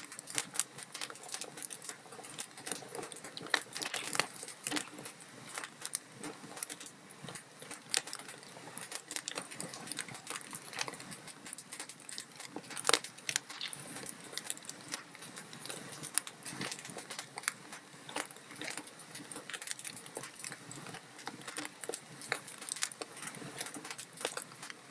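Log fire crackling in a fireplace: a continuous run of irregular snaps and pops over a soft hiss, with one louder pop about thirteen seconds in.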